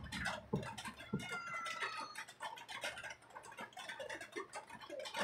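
A bird gives one drawn-out call of about a second with a slightly falling pitch, a little over a second in. Short clicks and taps of eating from a plate by hand come before and around it.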